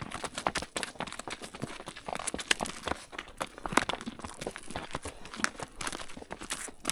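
Horses walking: irregular hoof clops and crunches, several a second.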